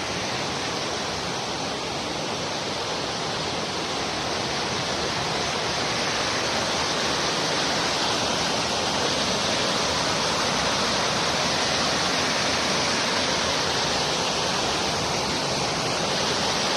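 Steady rush of the Gromotukha, a fast mountain river, water pouring over rocks, growing a little louder over the first few seconds and then holding.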